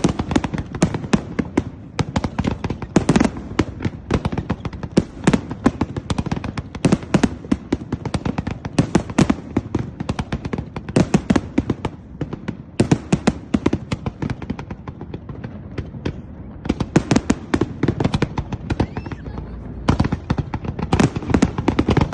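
Fireworks display going off in a rapid, unbroken string of sharp bangs and crackles. The bangs thin out for a few seconds past the middle, then come thick and fast again.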